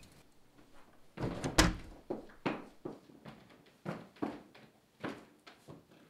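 A wooden interior door swings shut with a low thump about a second and a half in, followed by a string of light, uneven footsteps on a hard floor.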